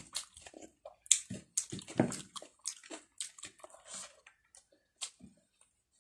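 Close, wet chewing and lip-smacking of a mouthful of rice eaten by hand, in quick irregular smacks and squelches that thin out after about four seconds.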